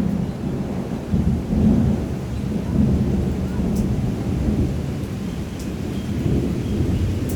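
Thunder rumbling in long rolling swells, with steady rain falling.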